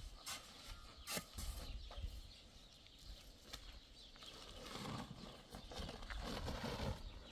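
Chickens clucking, with a few sharp knocks in the first couple of seconds.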